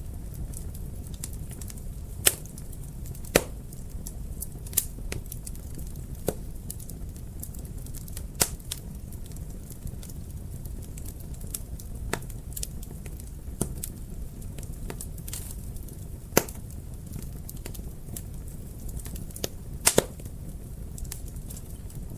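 Wood fire burning in a fireplace: a steady low rumble of flames with scattered sharp crackles and pops, the loudest about every few seconds and a quick double pop near the end.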